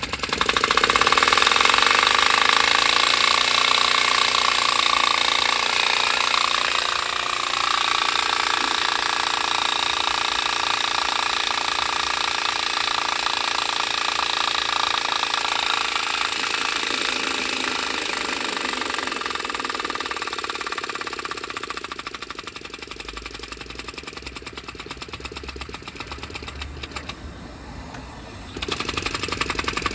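Compressed-air-driven rack-and-pinion piston engine prototype running with a rapid mechanical clatter. It picks up speed at the start and runs steadily, then gradually slows and quietens over the second half before picking up again near the end.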